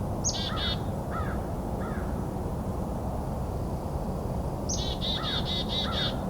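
Wild birds calling in two bursts, one near the start and one near the end. Each burst is a high falling note followed by a quick run of harsh notes, with a few lower short notes mixed in, over a steady low background rumble.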